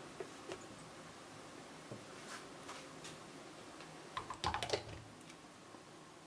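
Scattered light clicks and taps of small objects being handled, with a quick run of clicks about four seconds in.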